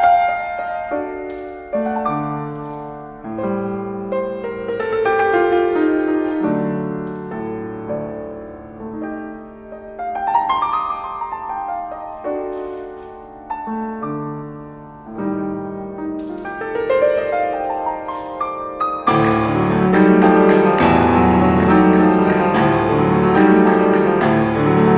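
Piano playing a piece with rising and falling arpeggiated runs over low chords. About 19 seconds in, it turns louder and fuller, joined by sharp, repeated percussive clicks.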